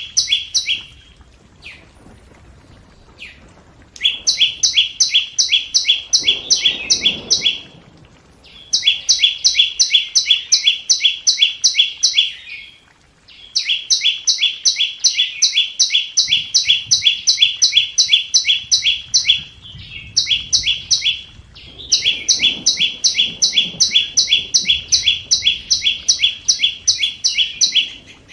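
Flowerpecker (chim sâu) calling: long runs of sharp, evenly repeated chip notes, about three to four a second, broken by short pauses of about a second. It is a decoy call meant to lure wild birds to a trap.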